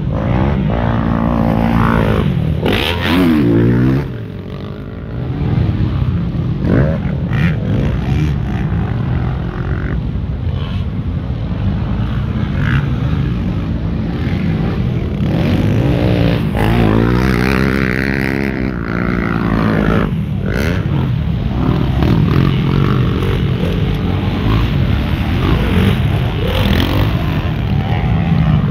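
Motocross bike engines running and revving, their pitch rising and falling again and again.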